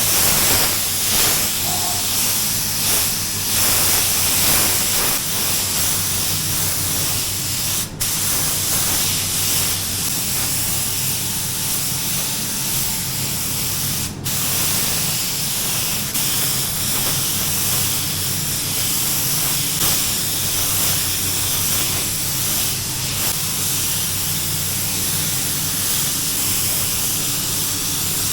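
Air spray gun hissing steadily as paint is sprayed, over a steady low hum. The hiss breaks off very briefly twice.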